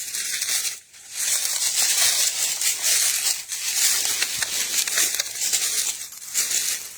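Footsteps crunching and rustling through dry leaves and brush, an uneven crackling that swells and dips as the walker moves.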